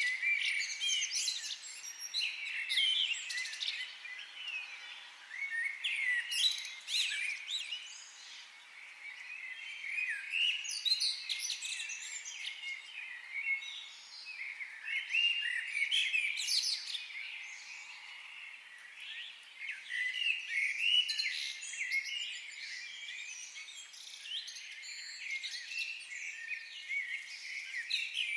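Several songbirds chirping and trilling, with quick high notes coming in bursts every few seconds over a faint steady background hiss.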